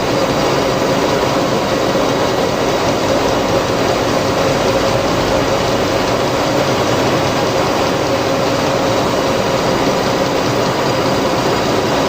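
A machine running steadily with a constant hum and an even rushing noise, unchanging throughout.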